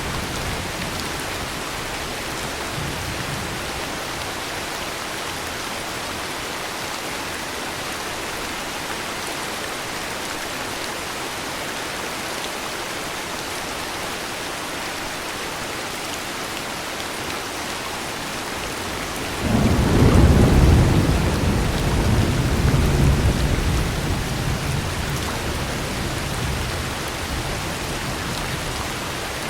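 Steady heavy rain falling throughout. About two-thirds of the way in, a low rumble of thunder rises suddenly, peaks for a couple of seconds, then fades slowly toward the end.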